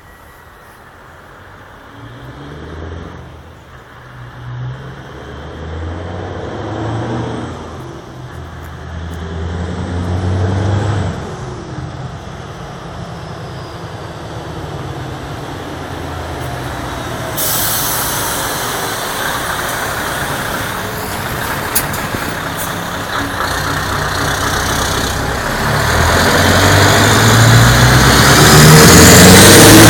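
Scania R620 V8 truck engine roaring as it pulls through the gears, its pitch rising and falling several times. It grows steadily louder as the truck comes close, loudest near the end as it passes.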